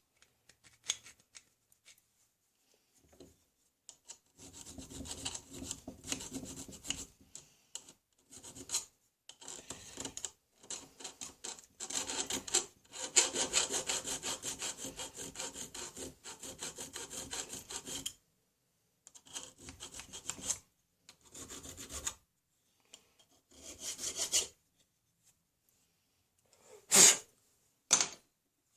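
Hand file working a notch into a steel wheellock lock part, in several runs of quick back-and-forth strokes with pauses between. Two short, sharp knocks near the end.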